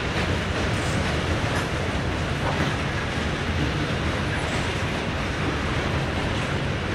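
Norfolk Southern freight train's cars rolling past: covered hoppers and flatcars making a steady, even rolling noise on the rails.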